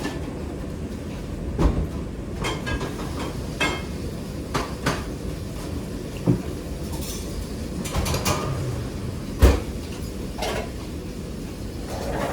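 Busy kitchen clatter: pots, pans and utensils knocking and clinking in scattered sharp hits over a steady low rumble. The loudest knocks come about a second and a half in and again near nine and a half seconds.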